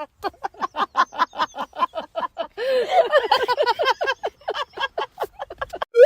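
Rapid run of short, pitched animal calls, about five a second, crowding together in a denser stretch around the middle.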